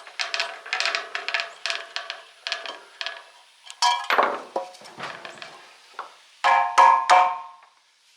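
Repeated ringing metal knocks on an old electric motor's housing as its end is worked loose: quick taps two to three a second at first, then a few heavier ringing strikes near the middle and toward the end.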